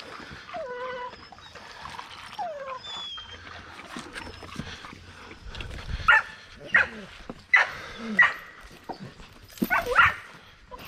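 Dog whining with short falling notes, then a run of about five sharp, loud yips or barks from about six seconds in.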